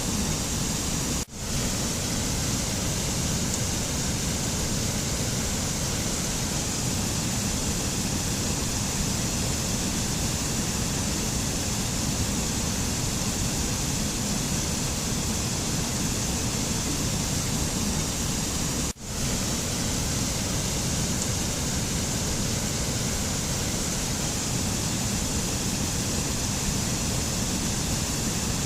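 Steady rushing noise of the kind used as a nature ambience, like water or wind, with no pitched sounds. It cuts out for an instant twice: about a second in, and again around two-thirds of the way through, each time returning within half a second.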